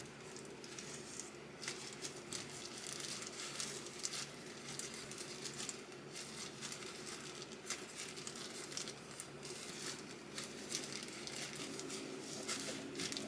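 Irregular rustling and crinkling with many small clicks, over a faint steady hum.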